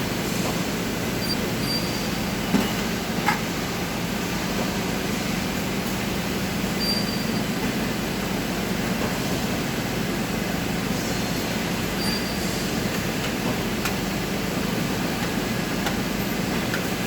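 Steady machine-like noise with a constant low hum, broken by two short knocks about two and a half and three seconds in.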